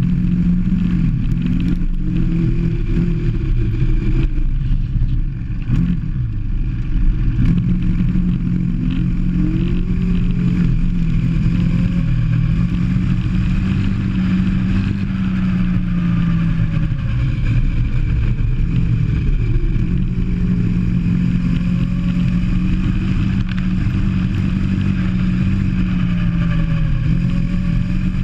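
Go-kart engine heard from on board, running hard at a steady pitch that repeatedly drops off and then climbs again as the kart slows and accelerates.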